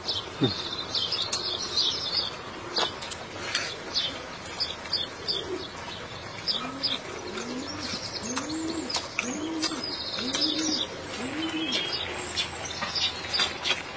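A bird calling in a run of about six low notes, each rising then falling, about a second apart in the second half, over smaller birds chirping. Short wet clicks of chewing and lip-smacking on meat come throughout.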